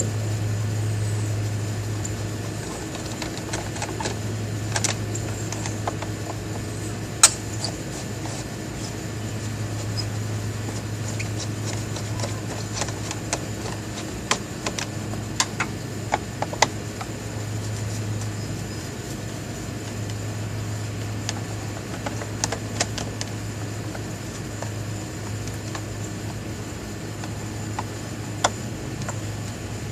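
A steady low hum with scattered sharp clicks and taps from a hand tool loosening the screws on a Honda Odyssey's plastic air filter housing.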